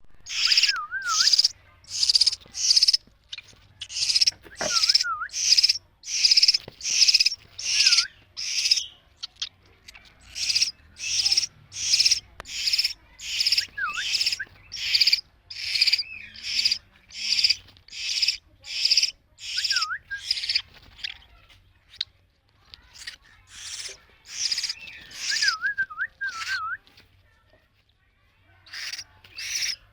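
Week-old hill myna chick giving harsh, raspy begging calls, about one to two a second in runs with short pauses. A few short wavering whistles come in between.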